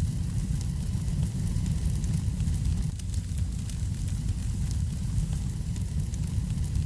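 Wood fire burning in a fireplace, crackling with frequent small, sharp pops over a steady low rumble.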